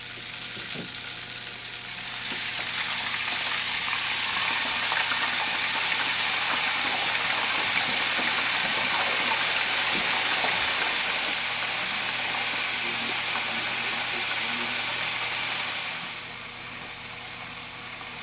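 Chicken pressure-frying in oil in a closed aluminium stovetop pressure cooker: a steady sizzling hiss that swells about two seconds in and eases off near the end.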